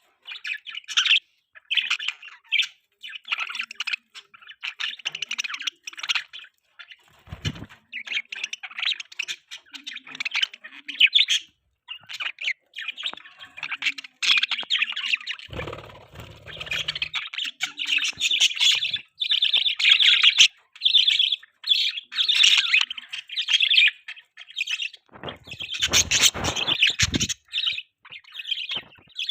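A flock of pet budgies chirping and chattering continuously in rapid, high twittering calls. Three short bursts of noise cut through the chirping, about a quarter of the way in, around the middle, and near the end.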